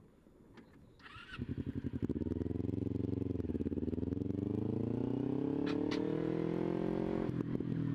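Kawasaki Ninja 250 parallel-twin motorcycle engine pulling away under throttle: it comes in about a second and a half in, dips briefly as it changes gear, then climbs steadily in pitch as the bike accelerates before dropping again near the end at the next gear change.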